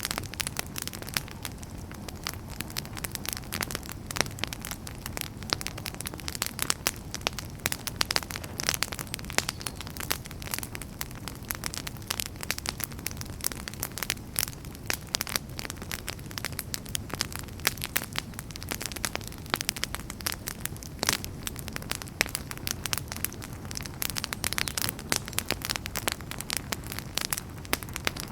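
Wood fire burning in a fireplace, crackling and popping with many irregular sharp snaps over a steady low rumble of flame.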